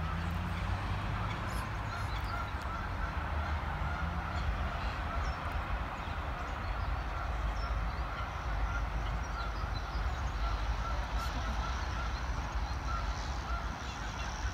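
Birds calling in a park: a dense chorus with a steady run of short repeated notes and scattered higher chirps, over a low rumble.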